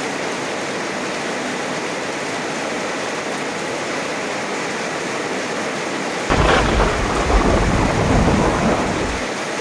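Steady heavy rain, with a sudden clap of thunder about six seconds in that rumbles for about three seconds and then dies away under the rain.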